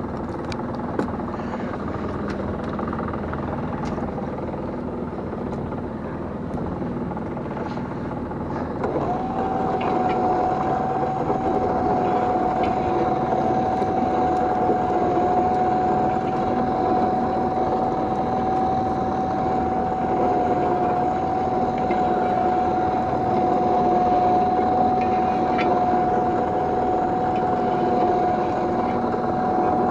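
Small fishing boat's engine running steadily while a gill net is hauled in. About nine seconds in, a steady whine joins and holds, and the sound gets a little louder.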